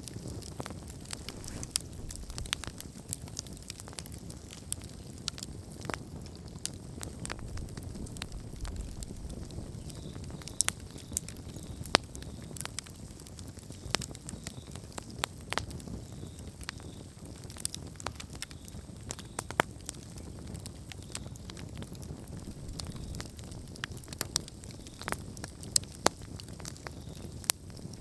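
Wood campfire burning, crackling and popping irregularly over a low steady rumble of flame, with a few louder sharp pops.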